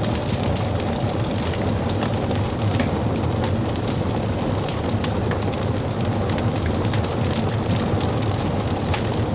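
Wood fire burning, a steady low rush of flame dotted with many small, sharp crackles and pops of the burning wood.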